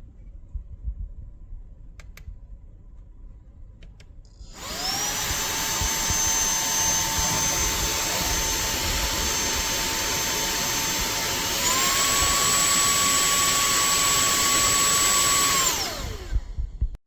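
TANYO cordless handheld vacuum cleaner switched on: its motor spins up with a rising whine, runs steadily with a rushing airflow, steps up to a higher pitch about halfway through as it goes to the higher of its two speeds, then winds down when switched off. A few faint clicks come before it starts.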